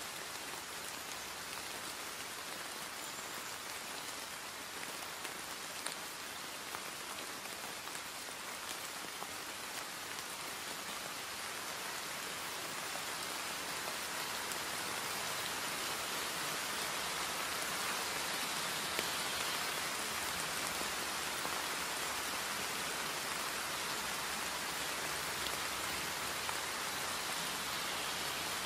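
Steady rain falling, an even hiss that grows a little heavier about halfway through, with a few faint drop ticks.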